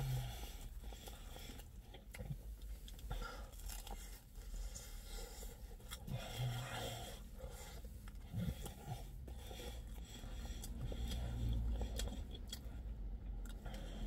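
A man biting into and chewing a slice of pizza, small mouth and handling sounds over a steady low rumble.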